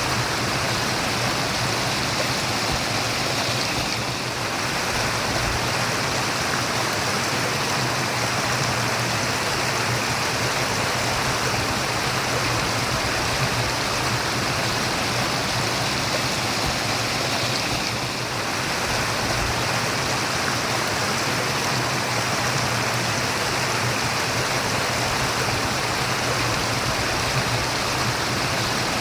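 Stream water running and babbling steadily, a continuous rushing murmur.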